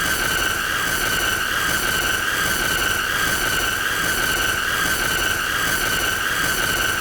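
A continuous shrill, high-pitched squeal held at one pitch with a slight waver, over a steady hiss, going on without a break.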